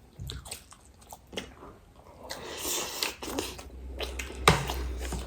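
Close-miked eating sounds: scattered clicks and crunches of crisp pani puri and chatpate being chewed, with a short hissy crunch a little past halfway and a sharp click near the end.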